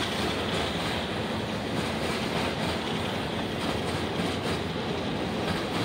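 Freight train of covered hopper cars rolling past, its steel wheels running steadily on the rails.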